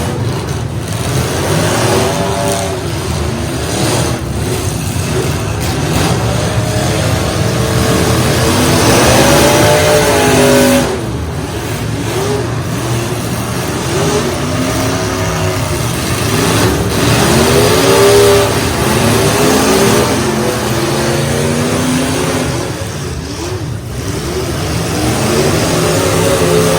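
Several derby truck engines revving hard together, their pitch rising and falling over and over above a steady low rumble.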